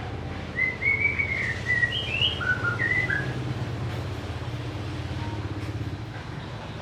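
White-rumped shama singing a phrase of short, clear whistled notes that step up and down in pitch for about two and a half seconds, starting about half a second in. A steady low hum runs underneath.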